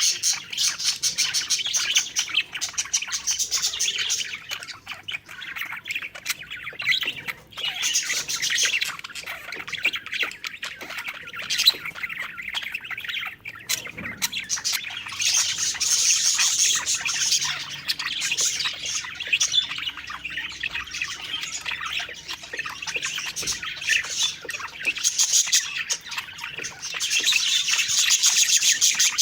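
A flock of budgerigars (parakeets) chirping and warbling continuously in rapid, overlapping chatter, with the odd squawk.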